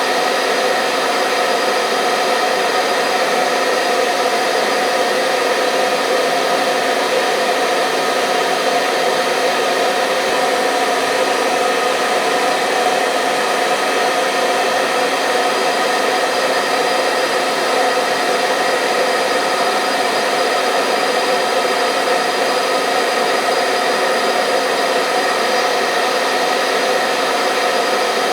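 Hair dryer running steadily: an even rush of air with a steady motor whine over it, never changing in pitch or level.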